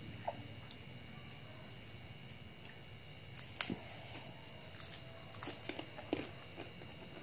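Someone chewing crisp raw green mango: a few scattered, faint crunches and wet mouth sounds over a quiet background.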